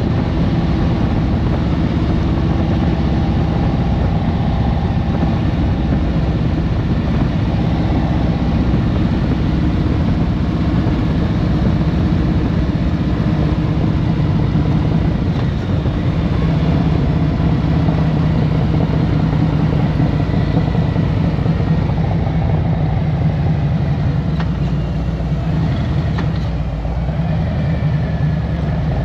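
2023 Harley-Davidson Road Glide Special's Milwaukee-Eight 114 V-twin engine running steadily in traffic, with a deep, even exhaust note.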